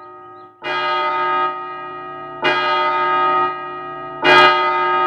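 A deep bell striking three times, about two seconds apart, each stroke ringing on and overlapping the next, like a clock chiming the hour, a cue that someone is late.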